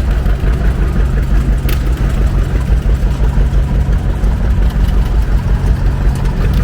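Antique John Deere two-cylinder tractor engines running steadily at a low, even pace as they drive past.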